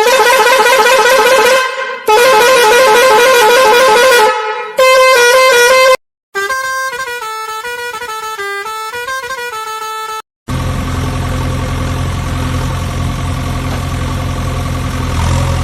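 Electronic vehicle sound effects: two loud warbling horn blasts, then a short stepped tune of beeping notes, then a steady low engine hum from about ten seconds in.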